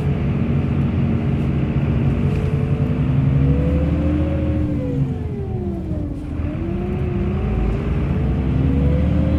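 Bus engine running under way, its pitch climbing as it accelerates, dropping off about halfway through, then climbing again.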